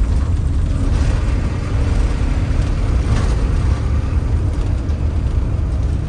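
Bus engine and road noise heard from inside the cabin while driving: a steady low rumble with tyre hiss.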